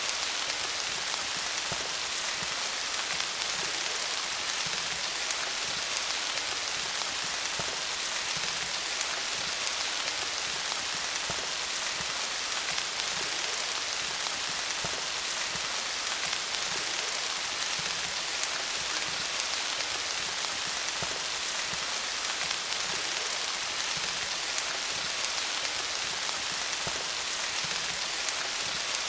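Steady rain falling on leaves, an even hiss full of fine drop patter.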